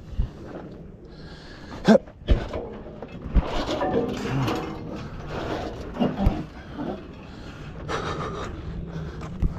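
Irregular metal knocks and clanks from hand work on a car's engine, about seven sharp strikes scattered over a background of shuffling and scraping.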